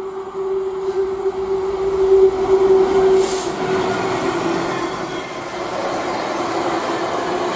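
Freightliner Class 66 diesel locomotive passing, its two-stroke V12 engine giving a steady drone that drops slightly in pitch as it goes by. The rumble of empty container flat wagons rolling past follows it.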